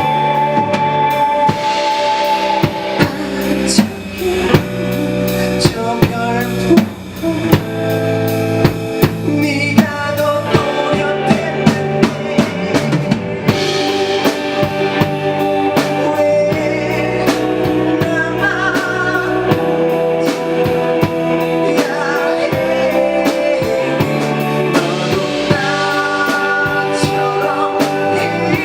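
A band playing an instrumental passage of a song live, with the drum kit prominent: frequent sharp snare and bass drum hits under sustained instrument chords.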